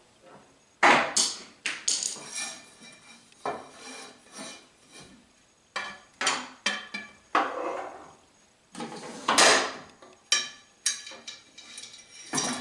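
Metal parts and tools clinking and knocking as a miter gauge fence is handled and fitted: irregular sharp knocks with brief ringing, a few louder ones about a second in, near two seconds and near nine and a half seconds.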